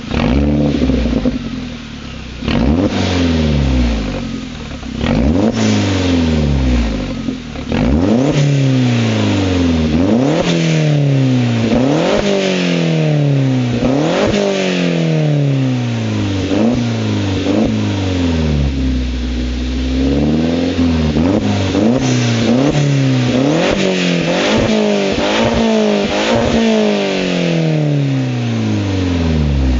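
Skoda Octavia RS 1.8-litre turbocharged four-cylinder engine through a custom stainless-steel exhaust with 3-inch downpipe, 100-cell cat and a single resonator, being revved repeatedly. Each rev rises sharply and falls back over a second or two, about fifteen times, with a short steadier low stretch just before the middle. The recording is overloaded by the loudness.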